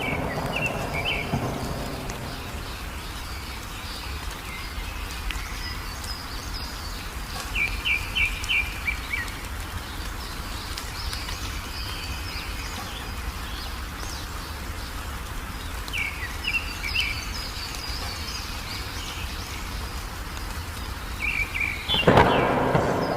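Wild birds chirping in short quick runs of notes over steady rain. A thunder rumble is fading at the start, and a loud thunderclap breaks in near the end.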